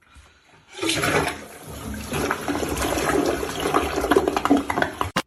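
Rushing, gurgling water that starts about a second in and cuts off just before the end.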